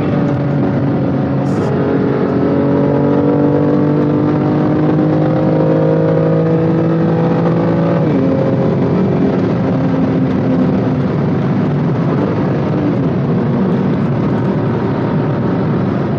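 BMW M2 Competition's twin-turbo 3.0-litre straight-six heard onboard, pulling hard under acceleration with its pitch climbing slowly for about eight seconds. It then drops sharply with an upshift and runs on at a steadier pitch.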